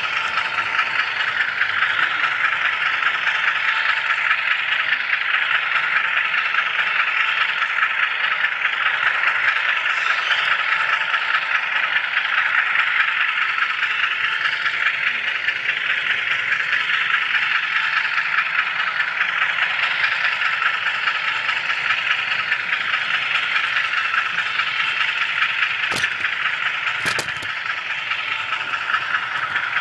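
HO scale model train rolling along the track, its wheels giving a steady rattling hiss, with two sharp clicks near the end.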